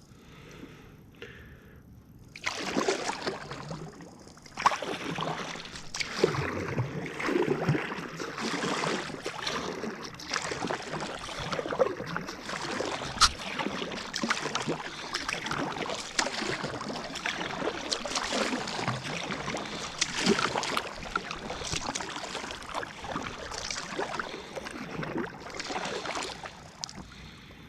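Kayak paddle dipping and splashing through lake water in a steady rhythm of strokes, with water washing along the hull; it starts about two and a half seconds in.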